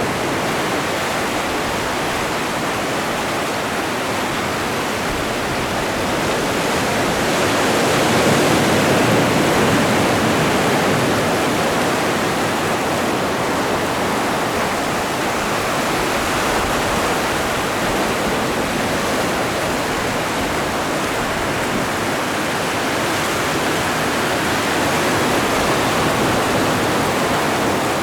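Atlantic Ocean surf: a continuous wash of breaking waves that swells a little louder around a third of the way in and again near the end.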